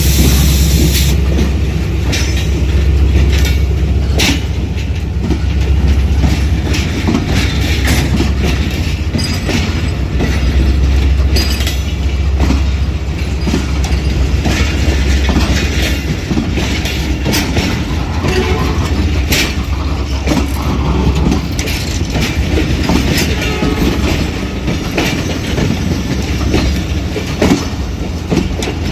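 Passenger train rolling slowly into a station: a steady low rumble from the wheels, with a run of clicks and clacks as they pass over rail joints.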